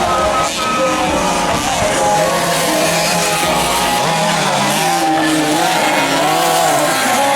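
Motocross bikes' engines revving on the track, several at once, their pitch climbing and dropping again and again with the throttle.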